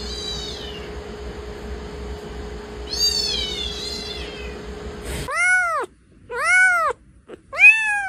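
Cat meowing: two high, thin mews in the first three seconds over a steady hum, then three louder meows about a second apart near the end, each rising and falling in pitch.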